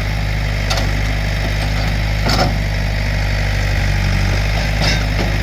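Backhoe engine running steadily under work, with three sharp clanks or knocks spread through it as the bucket breaks a dirt-packed stump loose.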